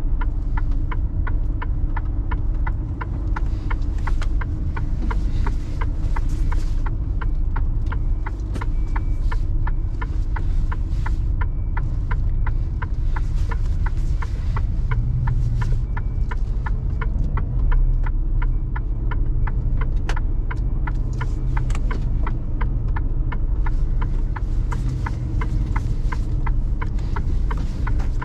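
Mercedes Actros truck's diesel engine running with a steady low rumble, heard from inside the cab, over a regular ticking at about three ticks a second.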